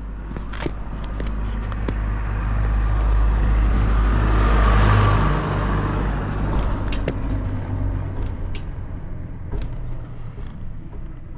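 Honda TLM220R's two-stroke single-cylinder engine running through a TOM'S aftermarket silencer. It rises gradually to a rev peak about five seconds in, then drops back toward idle, with a few short clicks along the way. The seller notes no abnormal noise and free revving.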